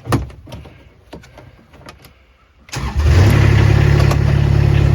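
A few scattered clicks and knocks, then about two and a half seconds in a diesel engine starts after its glow plugs have pre-heated: a cold start that catches quickly and settles into a loud, steady idle.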